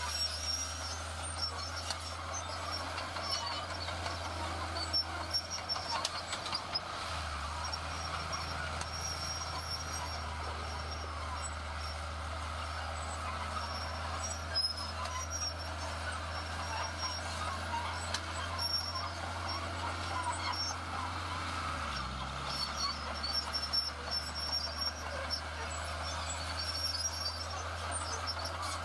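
Heavy diesel construction machinery running steadily with a low engine drone. The engine note shifts about seven seconds in and dips briefly around twenty-two seconds.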